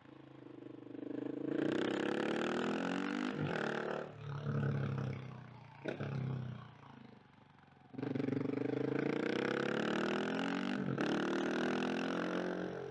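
KTM 690 SMC R's single-cylinder four-stroke engine under a rider's throttle, revving up in pulls with breaks at gear changes. There is a quieter off-throttle lull in the middle, then the engine comes back on hard and climbs again through another shift.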